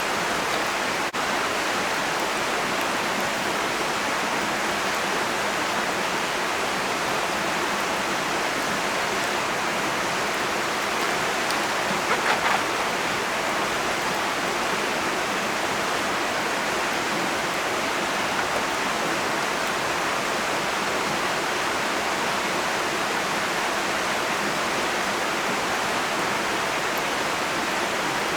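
Steady rushing noise of running water, with a brief cluster of short clicks about twelve seconds in.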